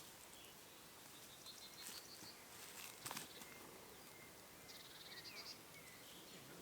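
Faint outdoor quiet with small bird calls: two short, rapid trills of high pips, the second about five seconds in, with a few brief chirps. There are also a couple of soft clicks, one about three seconds in.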